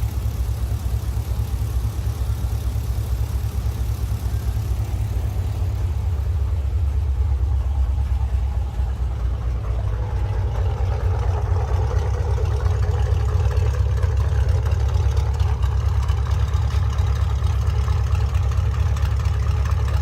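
Chevrolet Camaro SS V8 engine running with a steady deep rumble. A mid-pitched drone grows in about halfway through.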